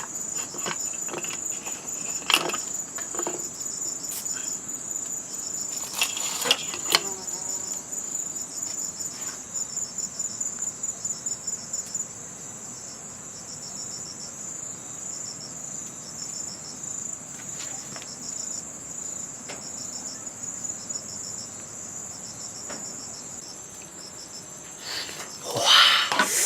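Steady high-pitched insect chorus, continuous throughout, with a few short knocks and rustles in the first several seconds and a louder rustle near the end.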